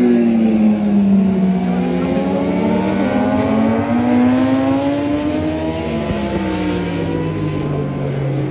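Racing motorcycle engines, several at once, running hard as they lap the circuit, their pitch sliding down, then up, then down again.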